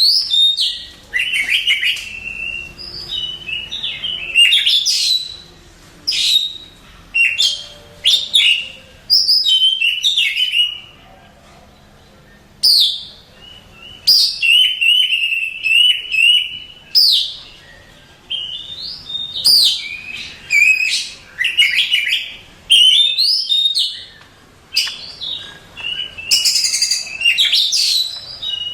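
Oriental magpie-robin (kacer) singing loudly in repeated phrases of varied whistles, rapid sweeps and chattering notes, with short pauses between phrases: the song of a contest-winning bird.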